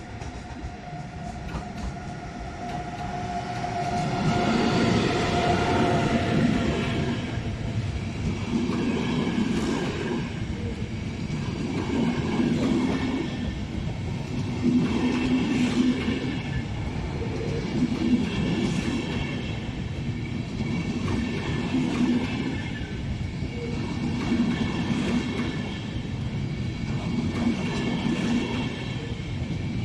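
A train rolls slowly through the station, getting louder over the first few seconds. Its wheels clatter in a slow rhythm, about once every three seconds, with faint wheel squeal.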